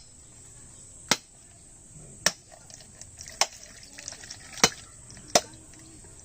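Five sharp knocks from a kitchen utensil, roughly one a second, over a faint steady hiss.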